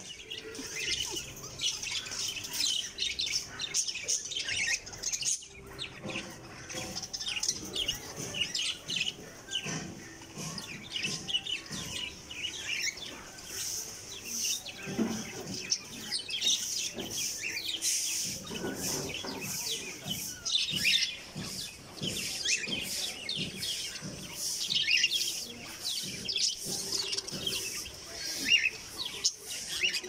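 Many caged birds chirping and twittering without pause, short high calls overlapping one another.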